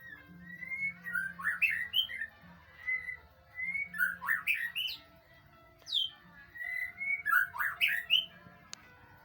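White-rumped shama (murai batu) singing in several phrases, each mixing clear whistled notes with quick sweeping notes, with short pauses between the phrases.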